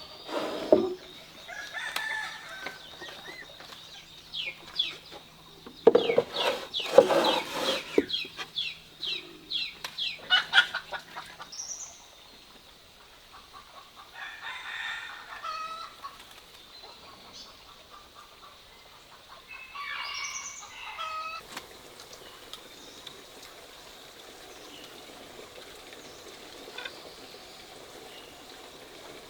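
Chickens calling: two short harmonic calls in the second half, after a long run of quick clicks and rustles that fades out about twelve seconds in.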